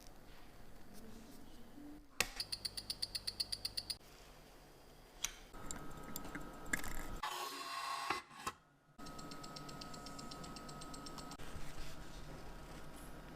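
Mechanical watch ticking up close, sharp even ticks at about eight a second, with small clicks of tools and handling in between.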